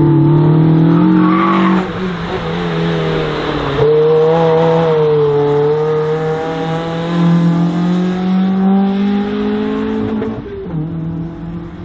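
Race car engine running hard and revving. Its pitch breaks about two seconds in, jumps sharply about four seconds in, then fades near the end and cuts off suddenly.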